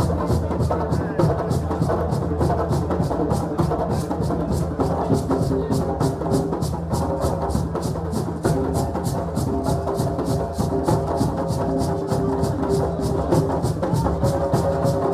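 Group drumming and hand percussion playing a quick, steady beat. Held tones that are likely voices join in about five seconds in.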